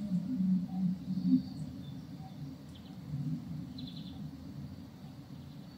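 Outdoor ambience: a few short bird chirps, with a quick trill about four seconds in, over a steady low rumble of background noise.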